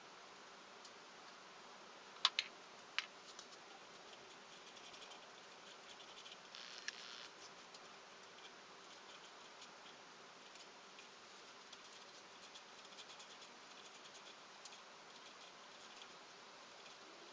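Faint scattered clicks and ticks, two sharper ones a couple of seconds in and quick runs of fine ticks later, with a short hiss about seven seconds in, over a low steady hiss.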